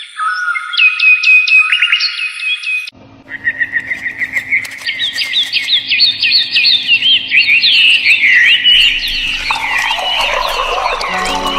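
Birds chirping with rapid, repeated high notes. About three seconds in, the sound switches abruptly to a dense chorus of many quick chirps. Low, steady musical tones come in near the end.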